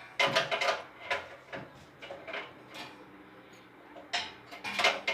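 A series of irregular knocks and clatters of hard objects being handled, the loudest cluster near the start and another about a second from the end.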